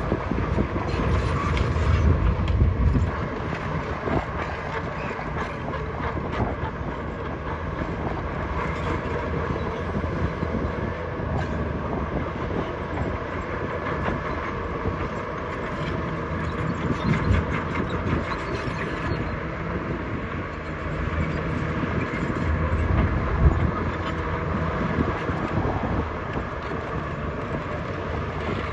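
Heavy earthmoving machine's diesel engine running steadily under load, with continuous clanking and rattling of steel parts.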